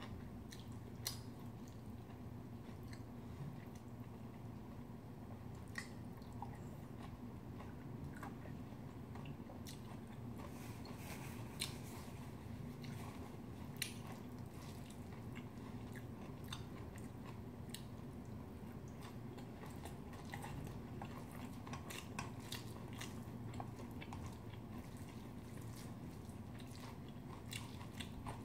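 Close-up chewing and mouth sounds of someone eating bibimbap of rice and seasoned vegetables, with short sharp clicks scattered throughout from a spoon and chopsticks on a stainless steel bowl, over a steady low hum.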